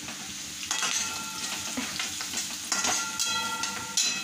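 Onion, ginger-garlic paste and freshly added curry leaves sizzling in hot oil in a metal kadhai. A long steel ladle stirs them, scraping and clinking against the pan from about a second in, with a sharp clink near the end.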